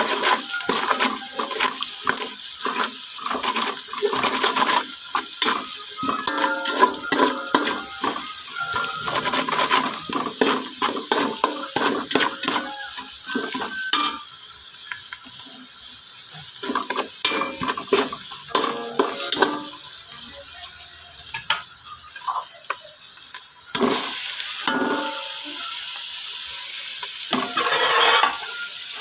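Chopped onion frying in hot oil in an aluminium pot, a steady sizzle with a metal spatula scraping and clinking against the pot as it is stirred. Near the end the sizzle suddenly gets louder as diced meat goes into the hot oil.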